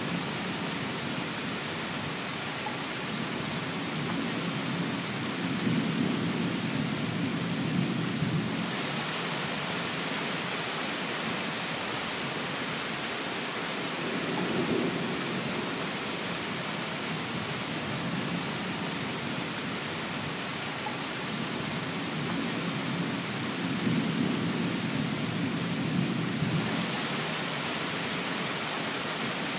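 Steady rain with three low rolls of thunder: a long one starting about four seconds in, a short one midway, and another long one near the end.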